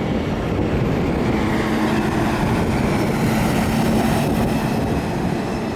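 Steady rushing rumble of jet airliner engines at low taxi power, with a faint high whine running through it.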